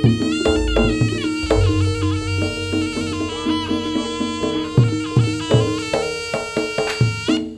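Javanese jaranan gamelan music: a shrill reed wind instrument plays a wavering, ornamented melody over steady metallophone tones and hand-drum strokes. The reed melody stops just before the end.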